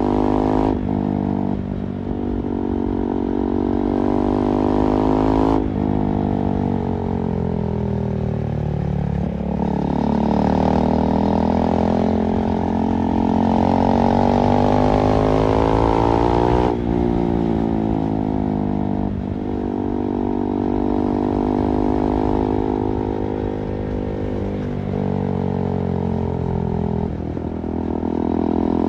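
KTM 390 Duke's single-cylinder engine under way, its pitch rising and falling with the throttle, with sudden shifts in pitch about six and seventeen seconds in.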